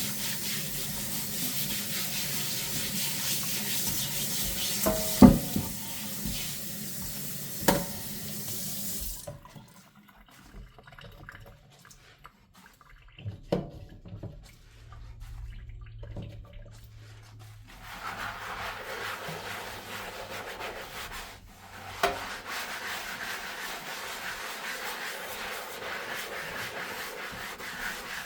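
Kitchen faucet running into a sink, with two sharp clinks of dishes, then the water shuts off about a third of the way in. A few knocks of dishes in the quiet follow, then steady scrubbing with a sponge through the last third.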